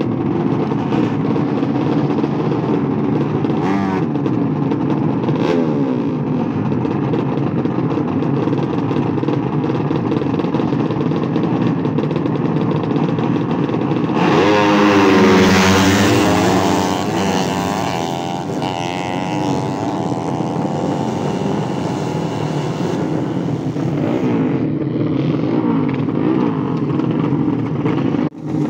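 Motorcycle engines running continuously. Halfway through, one grows louder and revs, its pitch dipping and then climbing before it settles back.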